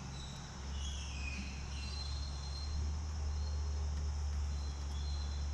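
Faint high chirping of insects over a steady low hum.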